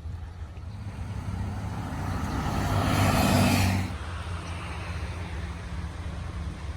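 Steady low hum of a road vehicle, with a rushing noise that swells over about three seconds and cuts off suddenly about four seconds in.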